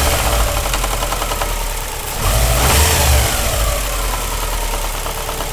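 Subaru EJ20 flat-four engine running with its timing belt exposed, the revs rising briefly about two seconds in. Extra pressure is held on the timing belt tensioner, so the knock-like slap from the failed tensioner, which had been mistaken for rod knock, is gone.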